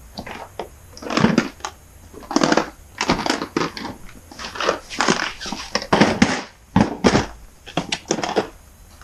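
Rummaging through items in a garage while searching for parts: irregular rustling and crinkling, with knocks and clatter of objects being moved.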